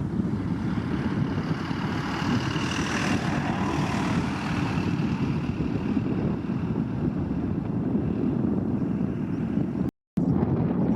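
Wind buffeting the microphone, a steady low rumbling rush, with a wider hiss swelling briefly a couple of seconds in; the sound cuts out for a moment near the end.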